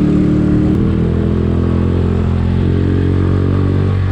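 Skygo Earl 150's single-cylinder CG150 engine, fitted with a 28mm Uma Racing VR carburetor, running steadily under way at an even pitch that shifts slightly about a second in.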